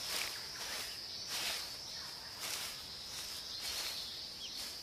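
Tropical forest ambience: a steady high-pitched insect drone, with several short rustles, like something moving through leaf litter, spread through it.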